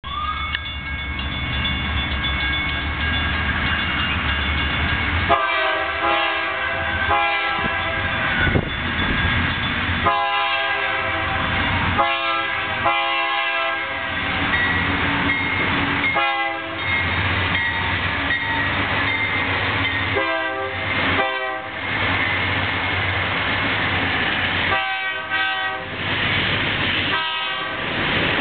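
Diesel locomotives of a grain train, a GE C44-9W and C40-9W, approaching and passing, with a steady low engine rumble. From about five seconds in, the air horn sounds a series of long and short blasts. Near the end, covered hopper cars roll by.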